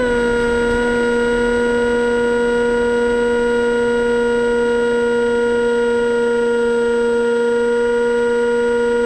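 Electric motor and propeller of an AXN floater jet RC plane running with a steady whine, dipping slightly in pitch at the start as the throttle is eased, then holding level.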